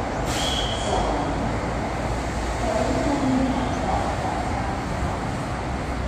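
SRT Red Line electric commuter train rumbling steadily as it pulls into the station, with a short high squeal about a quarter of a second in.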